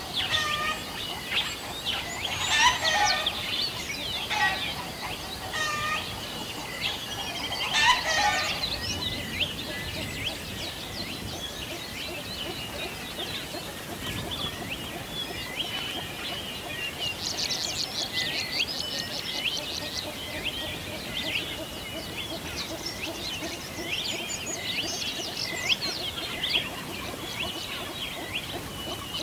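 Birdsong from several birds at once: many short chirps and calls overlapping, with a run of lower repeated calls in the first eight seconds and a fast trill past the middle.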